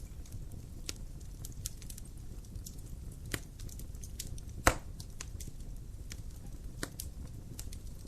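Wood fire crackling in a home fireplace: a steady low rumble of burning with scattered sharp snaps and one loud pop a little past the middle.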